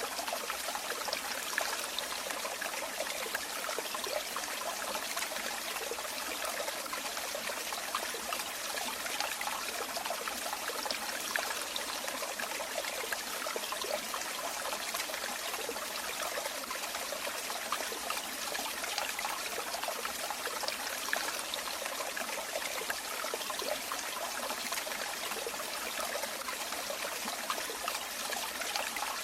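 Running water trickling and splashing in a steady, unbroken flow, light and bright with hardly any deep rumble.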